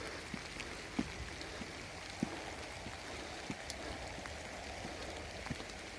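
Steady light rain falling, with a few scattered sharp taps.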